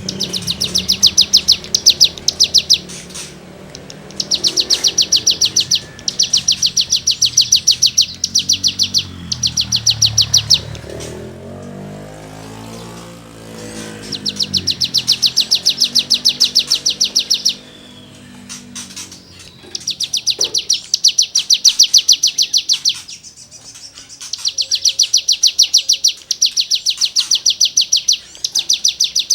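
Cigun songbird singing in rapid rattling trills: runs of very fast, scratchy repeated notes lasting one to three seconds each, broken by short pauses, the 'gesekan' rasping material used to tutor other songbirds.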